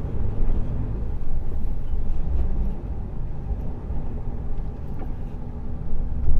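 Lorry engine and road noise while the truck drives, a steady low rumble.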